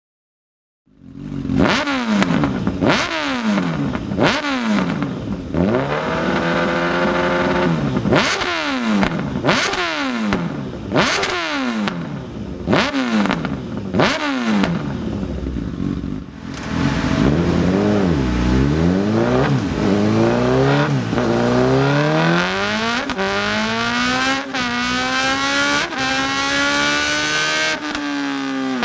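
Honda CB1000R inline-four through an aftermarket exhaust, blipped over and over: sharp revs that drop straight back, about once a second. About halfway through the revs climb slowly and steadily for several seconds, then rise and fall near the end.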